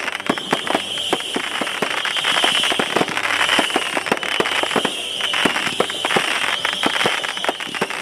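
Aerial fireworks exploding in rapid, irregular succession: many sharp bangs and crackles overlapping, with a steady high-pitched buzz underneath.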